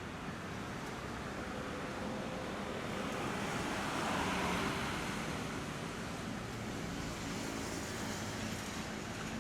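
Road traffic noise with a vehicle passing, its rush swelling to a peak about four seconds in and then fading.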